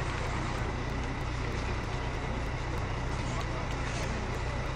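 Steady low drone of running engines, with voices in the background.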